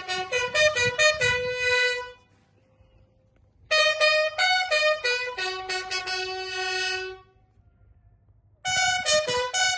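A bugle call played on a brass instrument: quick phrases of clear, separate notes, broken twice by pauses of about a second and a half.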